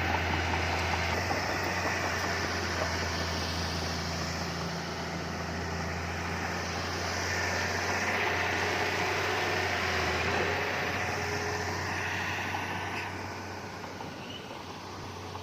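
Diesel engine of heavy earthmoving machinery running steadily with a deep hum and a broad mechanical clatter, easing a little near the end.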